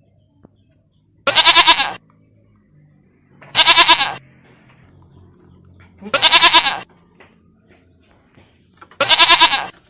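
Goat bleating four times, a few seconds apart, each call about a second long with a quavering, wavering tone.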